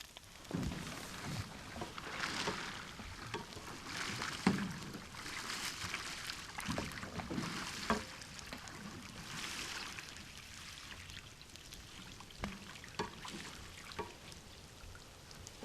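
Canoe paddle strokes in the water, a splashy swoosh about every two seconds, with a few light knocks in the later part.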